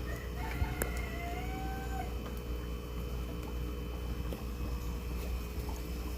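One drawn-out animal call lasting about a second and a half near the start, with a slight rise then a level pitch, over a steady low hum.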